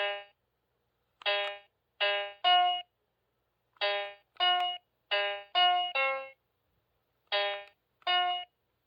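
Memory Maze electronic memory game playing short sampled piano notes, about eleven in all, singly and in quick runs of two or three at a few different pitches, with dead silence between.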